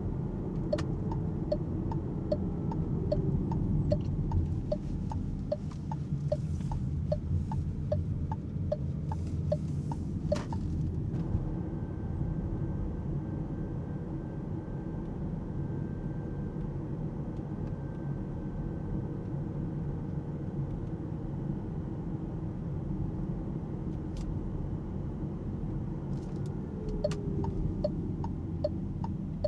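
Cabin noise of the Alpine A390 electric car on the move: a steady low rumble of tyres on the road, with no engine sound. The turn-signal indicator ticks a little under twice a second for the first ten seconds or so, then again near the end.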